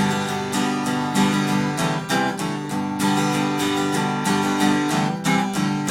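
Instrumental break of a country song: acoustic guitar strummed in a steady rhythm, with no singing.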